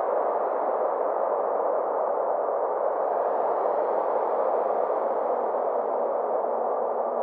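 Synthesized space ambience: a steady, muffled noise drone, with faint high gliding tones coming in about three seconds in.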